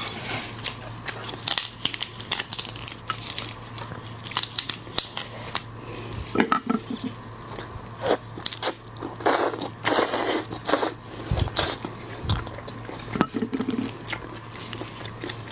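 Close-miked eating of large shrimp: repeated sharp cracks and crunches of shell, with wet chewing between them and a denser run of crunching about two thirds of the way in.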